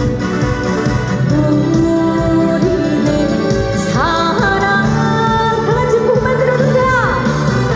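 A woman singing a Korean trot song live over loud backing music.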